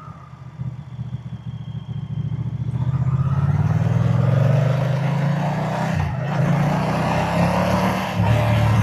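Moto Guzzi V-twin motorcycle engine and exhaust pulling hard under acceleration, getting much louder over the first few seconds. There is a brief break about six seconds in and a drop in pitch near the end, as it shifts up a gear.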